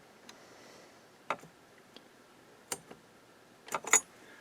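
Sharp metallic clicks and taps, one about a second in, another near three seconds, and a quick pair near the end: multimeter probe tips and tools touching down on the amplifier's transistors and metalwork during short testing.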